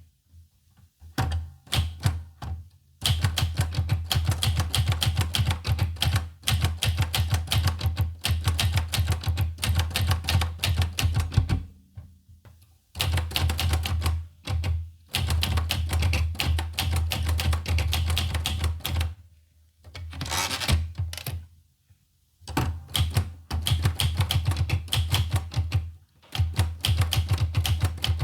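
Olivetti Lettera 25 manual portable typewriter being typed on: runs of rapid keystrokes broken by short pauses, with a brief rasping sound in one of the pauses about twenty seconds in.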